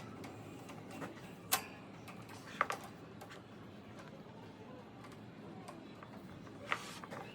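A few sharp clicks of hard objects over a faint steady low hum: one about a second and a half in, a quick double click a second later, and another near the end.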